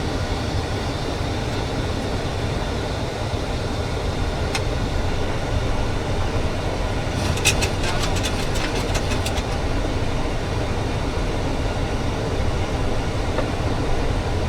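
Steady rush of airflow and engine noise on the flight deck of a Boeing 737 in flight on approach. A single sharp click comes about four and a half seconds in, and a quick run of about a dozen clicks follows around seven to nine seconds in.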